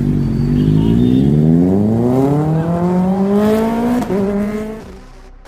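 Kawasaki Ninja inline-four sport bike accelerating hard, its engine note rising steadily in pitch. About four seconds in the pitch drops suddenly, then the sound fades.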